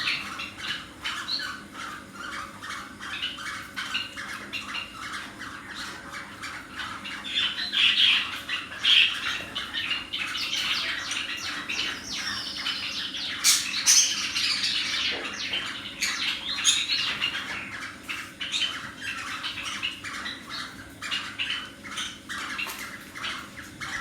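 Cockatiels calling: a continual run of quick, rasping chirps and squawks, loudest through the middle.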